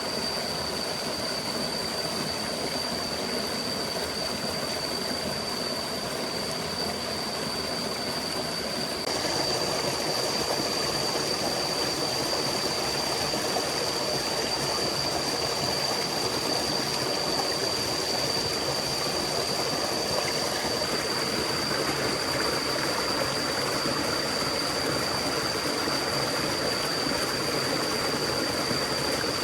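Steady rushing of a forest stream, with a thin, steady high-pitched tone running over it. The rushing grows louder in a step about nine seconds in.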